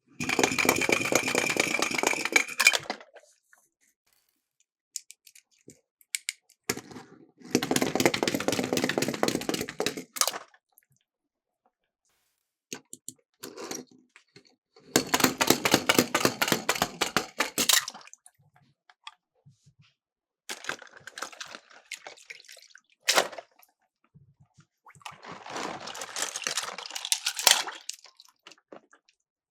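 Miniature toy cars rolling and rattling down a plastic slope, a dense run of fast clicking about three seconds long, repeated four times with pauses between, plus a few single sharp knocks.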